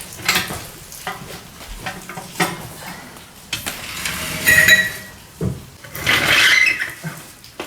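Clinking and scraping of metal garage work, with a short ringing squeal about halfway through and a longer hissing scrape near the end.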